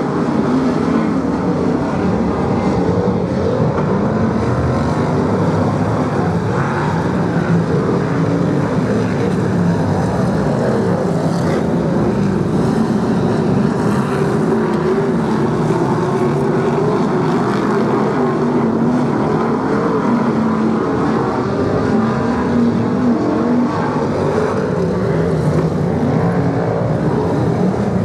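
A pack of BriSCA F1 stock cars racing, their V8 engines running hard together in a loud, continuous sound whose pitch wavers up and down as the cars lap the oval.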